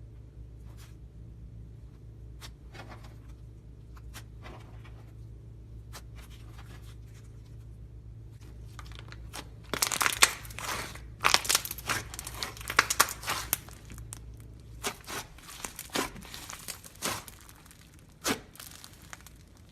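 Slime being pressed and squished by hand, giving irregular crackling and popping that starts about ten seconds in and comes thick and loud for a few seconds before thinning out, after a stretch of only a few faint clicks over a low hum.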